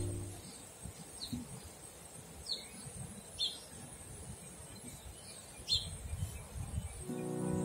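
A small bird gives about five short, falling chirps, spaced a second or so apart, over a faint outdoor background hush.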